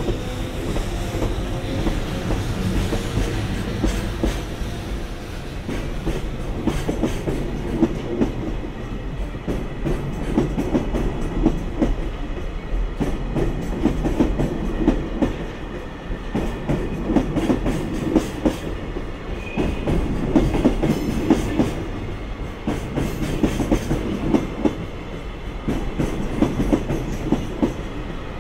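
Freight train's wagons rolling past, wheels clattering over rail joints in a steady repeating clickety-clack over a continuous rumble.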